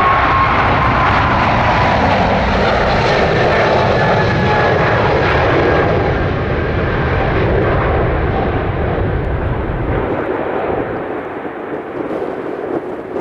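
Jet airliner's engines at takeoff power as it departs: a loud, dense rumble with a whine that slowly falls in pitch as the plane passes and climbs away. The deep rumble drops out and the sound fades near the end.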